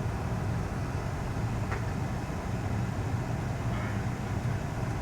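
Steady low rumble of a vehicle driving slowly, heard from inside the cabin: engine and road noise with no distinct events.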